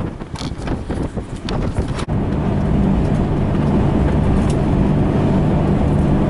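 Wind buffeting the microphone in gusts, then about two seconds in, a sudden switch to the steady hum of a car engine and road noise as the vehicle drives.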